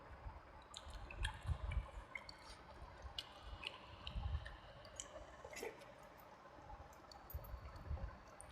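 Close-miked mouth sounds of a person chewing soft, wet food: low, irregular jaw thumps with wet clicks and squelches between them.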